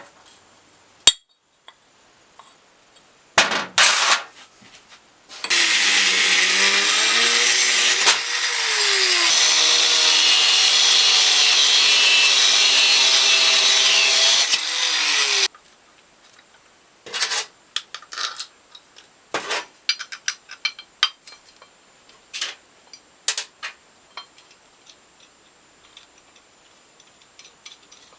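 A power tool runs for about ten seconds, its pitch dipping and recovering as it works under load. Sharp clicks and taps of handling metal parts come before and after it.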